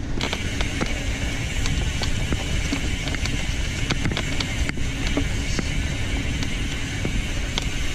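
Steady wind and tyre rumble from a bicycle riding over a rough trail, with scattered small clicks and knocks from the bike jolting over bumps.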